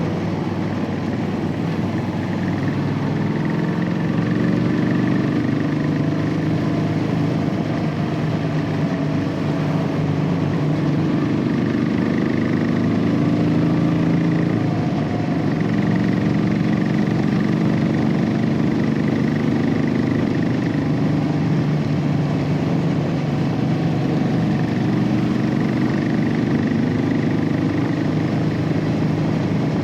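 Royal Enfield Classic 500's single-cylinder engine, heard through its stock exhaust, running steadily while the bike is ridden. Its pitch drifts gently up and down as the throttle changes.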